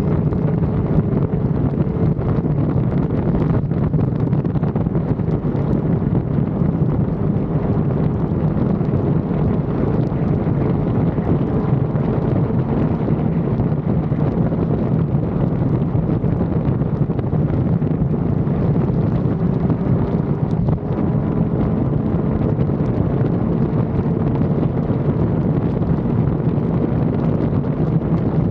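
Wind buffeting the action camera's microphone over the steady drone of a sport bike's inline-four engine at cruising speed.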